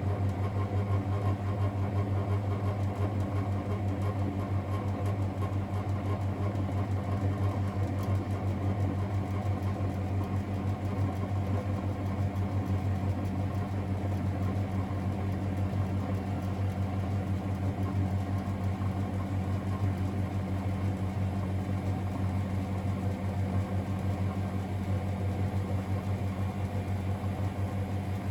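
Miele Novotronic W921 washing machine running with a steady low hum that does not let up.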